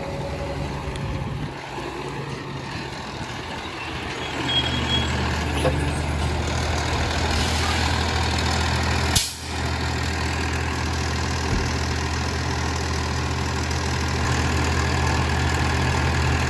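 Compost collection truck's engine running steadily, growing louder about four seconds in, with one sharp burst of noise a little past halfway.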